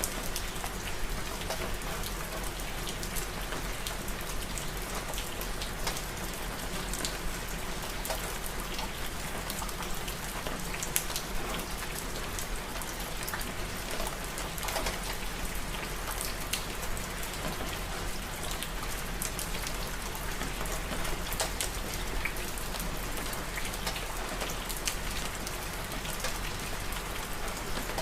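Steady rain falling on a surface, with many individual drop strikes pattering throughout.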